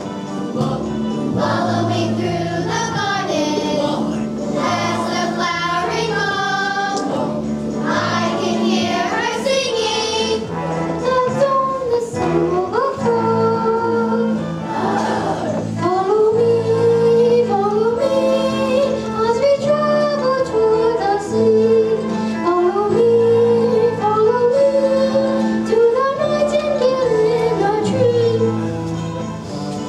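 Children's chorus singing a song from a school musical over a steady instrumental accompaniment.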